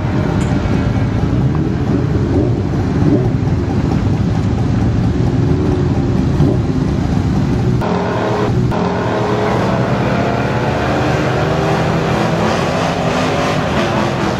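Engines of drag-racing vehicles running near the starting line, a steady overlapping engine rumble.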